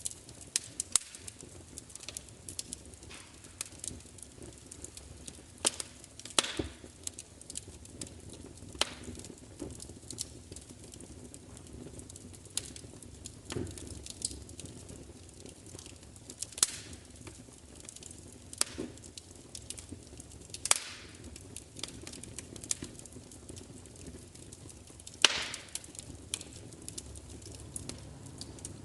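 Fire crackling: irregular sharp pops and snaps over a low, steady hiss, with the loudest snap about 25 seconds in.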